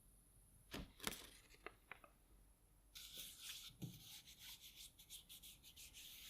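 A few light knocks from handling a part, then quick short rubbing strokes by hand on a workpiece, about three or four a second, starting about three seconds in.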